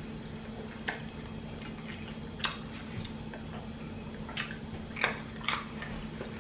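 A person chewing a taco up close: about five short, sharp mouth noises spaced irregularly over a few seconds, over a steady low hum.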